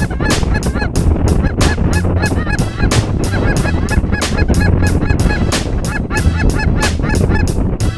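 Geese honking and clucking, many short calls in quick succession and overlapping, over a steady low rumble of wind.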